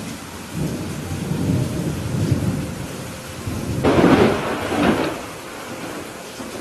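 Thunder rumbling over steady rain: a low rumble builds about half a second in, swells to its loudest around four seconds in with a sharper crackle, then dies away back to the rain.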